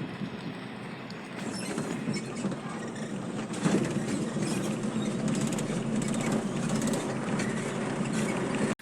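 Steady rumble of a vehicle on the move, road and wind noise, growing louder a second or two in and cutting off suddenly near the end.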